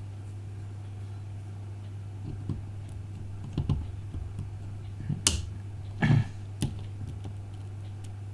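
Small tools clicking and tapping on the tiny parts of an iPhone 5 being taken apart: a handful of sharp, irregular clicks from about two seconds in, over a steady low hum.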